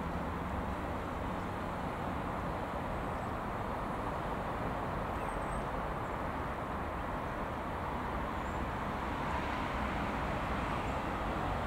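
Colas Rail Class 60 diesel locomotive, with its eight-cylinder Mirrlees engine, approaching slowly at the head of a loaded biomass train. The engine and the rolling wagons make a steady, even rumble.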